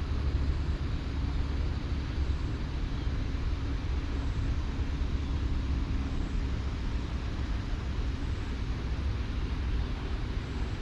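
Steady low rumble with a faint hiss over it, outdoor background noise with no distinct events.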